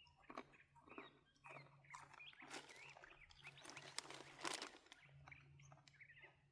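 Faint chewing and crunching close to the microphone as a person eats, with faint high chirping calls in the background through the middle.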